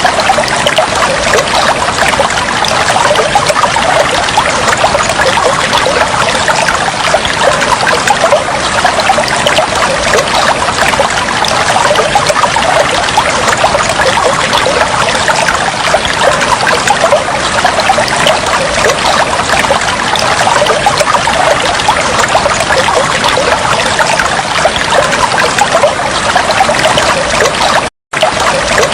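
Steady trickling, flowing water, like a small stream. It cuts out for an instant about a second before the end.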